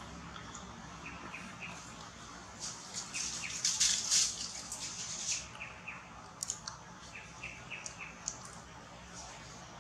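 Forest ambience: a bird repeats a short, high note in quick runs of three or four, several times over. About three to five seconds in comes a louder stretch of high, hissing rustle with small crackles.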